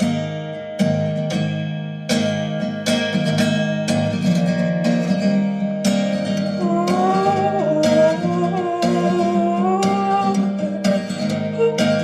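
Acoustic guitar song in an instrumental break, with steady strummed chords; about halfway in a wordless sliding vocal line comes in over the guitar.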